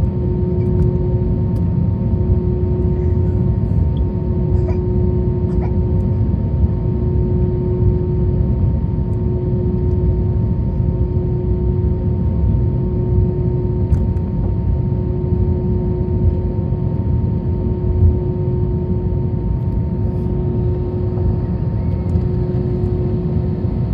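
Cabin noise inside an Airbus A321 on the ground after landing: a steady low rumble with a constant hum from the idling engines as the airliner taxis.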